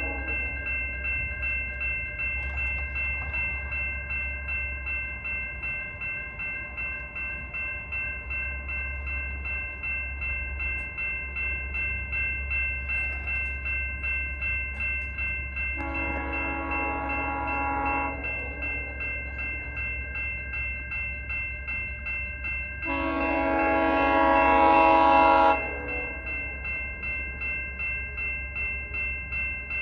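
Level-crossing warning bells ringing steadily at about two strokes a second while a GO Transit train sounds its horn twice, a short blast about halfway through and a longer, louder blast a few seconds later.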